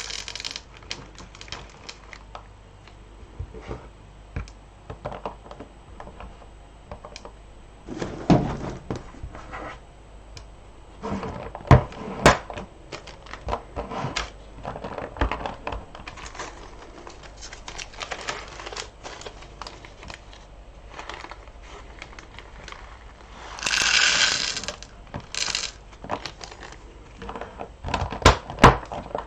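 Beads being handled and sorted by hand: many small irregular clicks and rattles, with a few louder knocks. A longer rustling burst comes about two-thirds of the way in.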